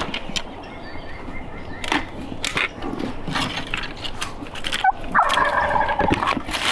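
Wild turkey gobbler gobbling once, a rattling call about a second long, about five seconds in, among scattered clicks and rustles.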